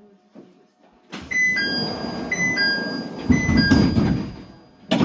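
Cable car door chime ringing a falling two-note 'ding-dong' three times while the sliding doors move with a rumble, ending in a sharp thud as a door reaches its stop.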